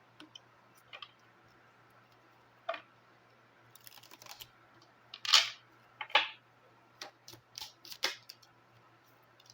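Lenormand cards being shuffled and handled, giving scattered sharp snaps and clicks, the loudest about five to six seconds in.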